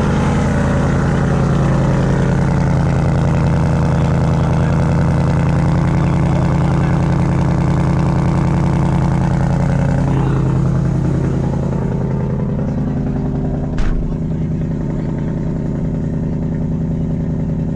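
2024 Ford Mustang GT's 5.0 V8 running steadily at idle through newly installed Kooks headers just after start-up, with a deep, loud exhaust note that eases off slightly about two-thirds of the way in. A single sharp click comes near the end.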